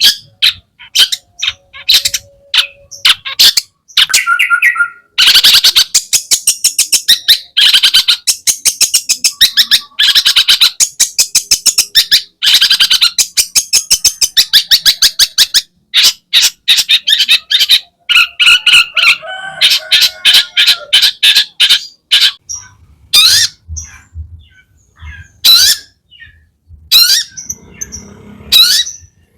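Long-tailed shrike (cendet) singing a loud, rapid chattering song of harsh, scratchy notes packed with mimicked calls of other birds, thinning to separate calls in the last third, with a few low knocks near the end.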